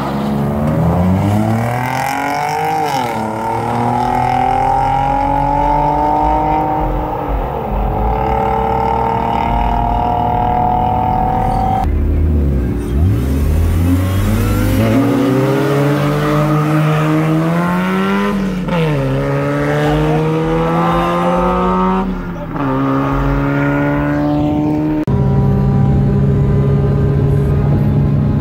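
Car engines revving hard and accelerating, with tyre squeal, in several clips edited together. The engine pitch climbs and drops again and again, and the sound changes abruptly about twelve seconds in and again twice near the end.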